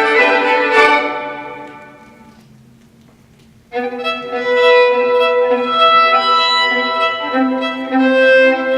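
Violin music: a sustained bowed chord fades away over the first two seconds, a brief lull follows, and about three and a half seconds in a new sustained phrase of held bowed notes starts abruptly.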